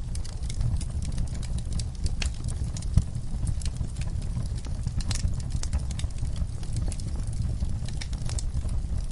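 Wood fire crackling, with scattered sharp pops and snaps over a steady low rumble of flames; one louder pop about three seconds in.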